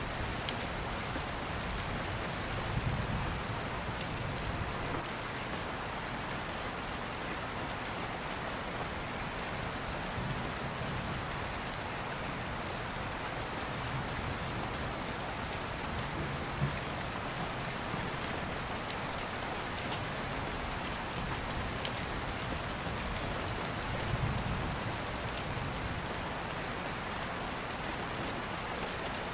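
Steady rain falling on a surface, an even hiss with scattered sharp clicks and a few soft low rumbles, about 3 seconds in and again near the end.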